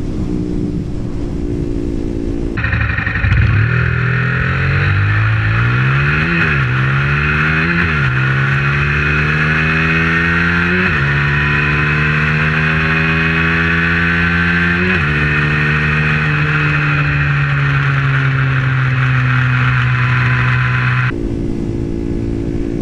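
KTM Duke 125's single-cylinder four-stroke engine through an IXIL Hyperlow exhaust, running steadily. About two and a half seconds in it accelerates hard, its note climbing through four upshifts with a drop in pitch at each shift, then holds nearly steady before switching back to a lower, steadier note near the end.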